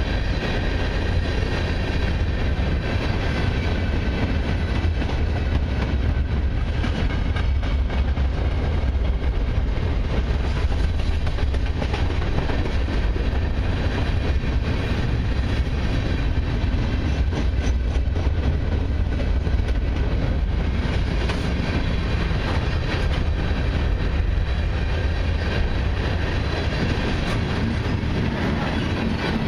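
A long freight train rolling steadily past at close range: loaded gondola cars on steel wheels give a continuous deep rumble, with clicking over the rail joints.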